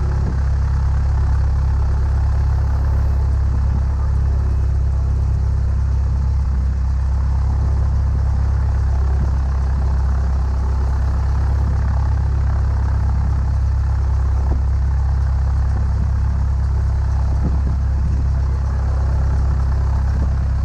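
Cessna 172's piston engine running steadily at low power while the plane taxis, a constant low drone with no change in pitch.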